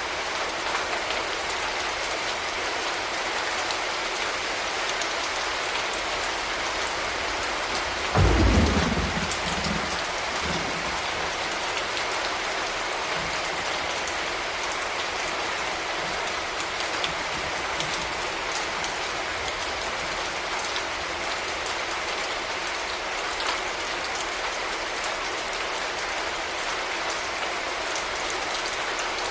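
Steady rain falling, with a sudden clap of thunder about eight seconds in that rumbles away over the next couple of seconds.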